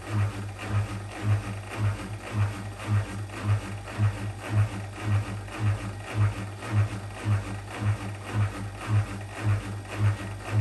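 Whirlpool washing machine's drain pump running with a deep hum that pulses about twice a second, chugging as it pumps out water. The owner takes the sound to mean the pump is not working well.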